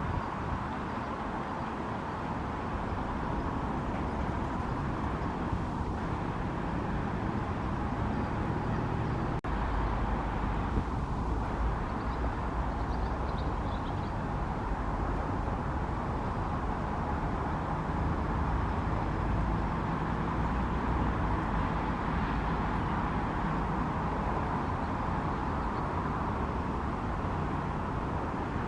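Steady hum of distant road traffic, even and unbroken, with a brief dropout about a third of the way in.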